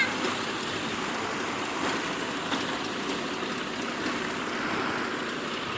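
Steady rushing, trickling water around a small boat's hull.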